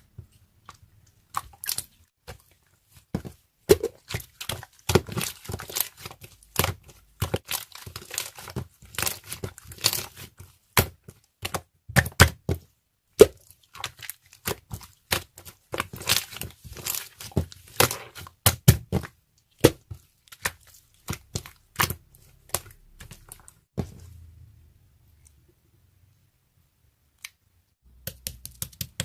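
Dense, irregular clicking and crackling, many sharp clicks a second, that stops a few seconds before the end and then starts again briefly.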